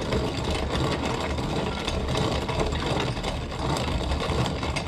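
Antique hand-cranked corn grinder crunching whole dried corn into cracked corn: a steady, dense grinding and crackling as the wheel is turned.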